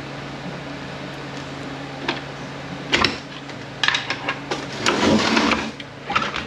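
Oil pump of a Toyota A340F automatic transmission being pried out of its case with a pry bar. Sharp metal clicks and knocks come first, then a louder scraping rattle about five seconds in, over a steady low hum.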